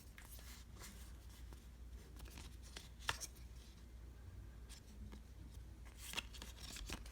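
Faint handling of baseball trading cards: cards sliding and rubbing against one another, with light clicks, the sharpest about three seconds in and just after six seconds.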